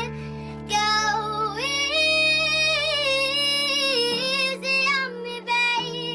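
A child singing in a high voice, holding long notes with vibrato over steady sustained chords that change twice.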